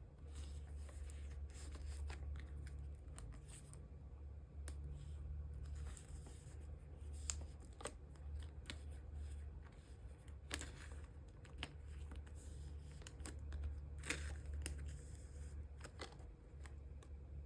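Photocards and thin clear plastic card sleeves being handled: soft rustling and sliding with scattered light clicks and taps.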